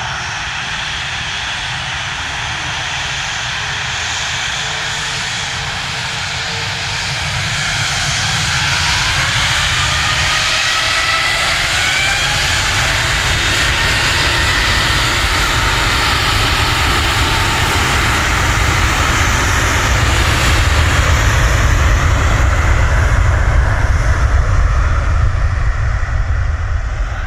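Airbus A380's four jet engines during departure: a steady rumble and hiss that grows louder through most of the stretch and eases near the end. A whine rises in pitch about eight to thirteen seconds in.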